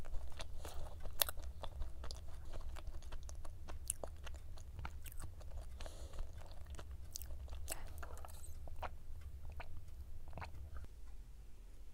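Close-miked chewing of a mouthful of pistachio cube pie, a flaky laminated pastry, with many small wet mouth clicks and light crunches. Near the end the chewing stops for a sip from a drink through a straw.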